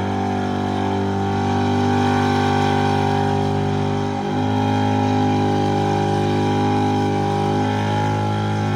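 A V8 car engine held at high revs during a burnout, running steadily, with brief dips in revs about four seconds in and again near the end.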